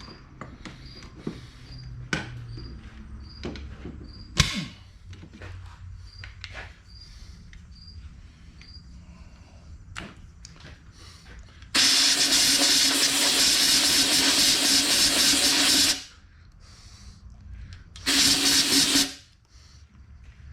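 Compressed-air blow gun blasting out a freshly tapped head bolt hole in a big-block Chevy 396 engine block: a loud steady hiss of about four seconds, then a second blast about a second long near the end. Light tool clicks and knocks come before, with a cricket chirping faintly at a regular pace in the first half.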